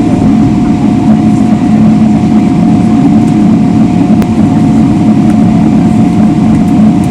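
Steady cabin noise of a Boeing 777-300ER after landing: a loud, even rumble from its GE90 engines at idle and the airflow, with a thin steady whine on top.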